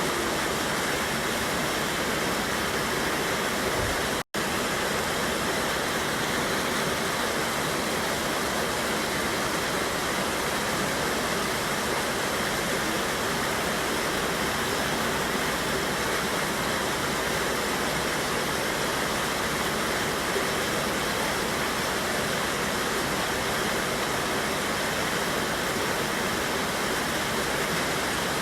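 Smoky Mountains river waterfall rushing in a steady, even roar of water. The sound drops out for an instant about four seconds in.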